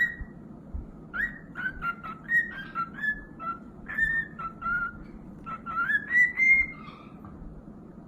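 A parrot whistling a run of short, quick notes that step and glide up and down in pitch, after a single short note at the start.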